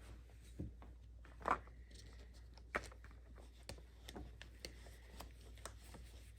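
Quiet handling noises in a small room: scattered light clicks and taps, with one louder knock about a second and a half in and a sharp click a little later.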